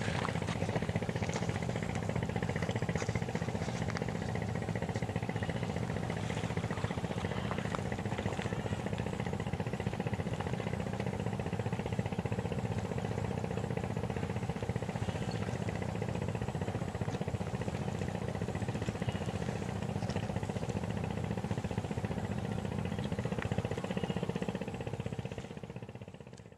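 An engine running steadily, with a low, even hum and fine rapid pulsing; it fades out near the end.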